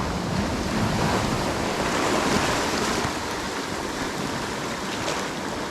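Swell breaking and washing on the shore, a steady rushing of surf, with wind buffeting the microphone.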